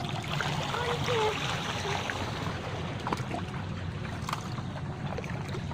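Steady noise of running water, with a faint voice about a second in.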